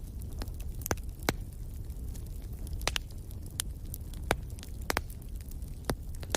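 Wood fire burning in a fireplace: irregular sharp crackles and pops over a steady low rumble of the flames, a few pops standing out louder than the rest.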